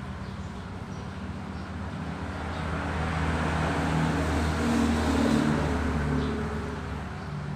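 A road vehicle driving past, its engine and tyre noise swelling to a peak about five seconds in and then fading.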